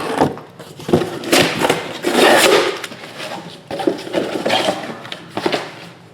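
Cardboard trading-card boxes being handled on a table: irregular rustling, scraping and knocks, busiest about two seconds in and dying down near the end.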